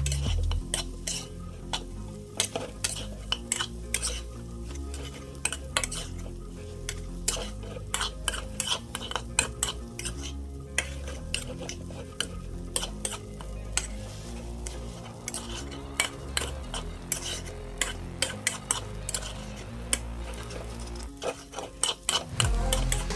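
Egg fried rice being stir-fried in a pan: a metal spatula scrapes and clacks against the pan in quick, irregular strokes over a sizzle.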